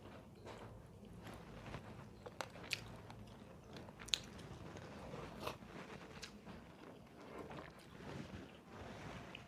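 A person chewing food, with a few sharp, crisp crunches scattered through the chewing.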